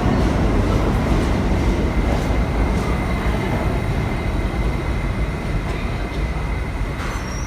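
R46 subway car running with a steady, dense rumble of wheels and motors, heard from on board, gradually easing slightly in loudness.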